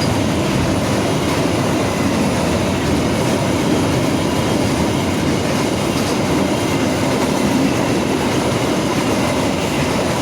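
Freight train of fuel tank wagons rolling past, a steady, loud rumble of steel wheels on the rails.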